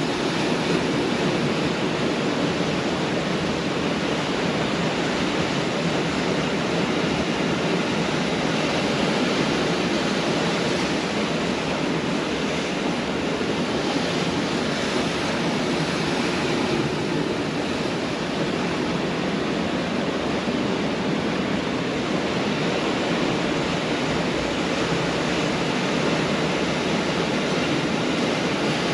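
Pacific Ocean surf breaking on a beach: a continuous wash of waves that swells and eases slowly.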